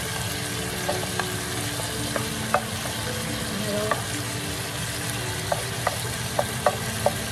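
Soy-marinated chicken thighs and fresh garlic cloves sizzling in hot oil in a nonstick pan, stirred with a spatula. Steady frying hiss with sharp taps of the spatula against the pan, several close together in the second half.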